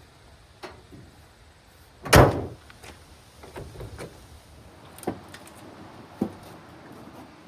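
A heavy metal panel on a 1972 Chevrolet C50 truck slammed shut once, loud and sharp with a brief ring, among a few lighter clicks and knocks.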